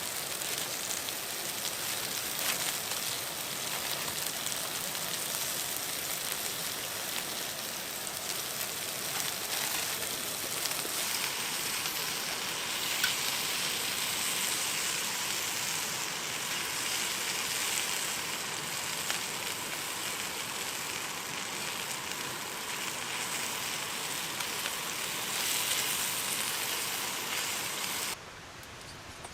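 Food sizzling and crackling in a hot pan, a steady hiss that cuts off abruptly near the end.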